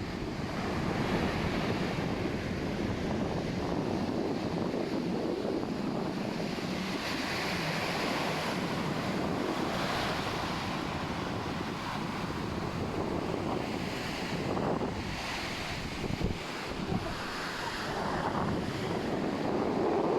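Ocean surf breaking and washing up the beach, swelling and easing with the waves, with wind noise on the microphone.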